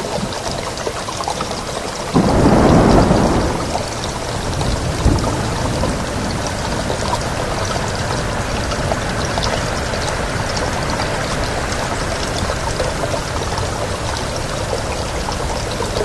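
Steady heavy rain with a sudden clap of thunder about two seconds in that rumbles away over a second or two, and a smaller crack a few seconds later.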